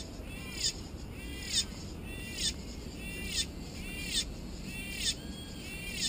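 A bird giving the same short call over and over at a steady pace, a little more than once a second, seven calls in all, each rising then falling in pitch.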